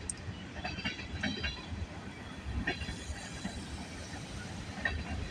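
Freight train cars rolling past: a steady low rumble of wheels on rail, with scattered short clicks and squeaks from the wheels.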